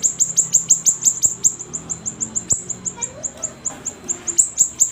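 Siri-siri songbird singing in a rapid, sustained run of sharp, high chirps, each a quick downward sweep, about eight to ten a second.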